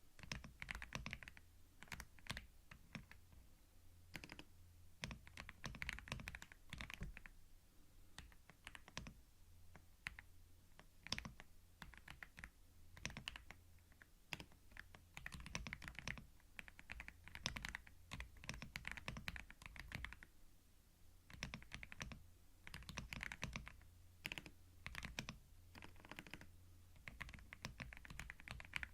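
Soft typing on a computer keyboard: runs of quick key clicks in bursts, with short pauses between them.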